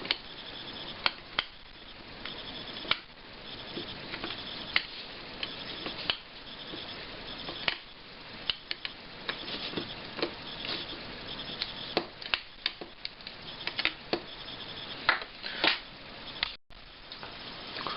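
Desoldering a TDA2030A amplifier chip from an active speaker's circuit board: scattered sharp clicks and taps of tools on the chip and board over a faint steady hiss.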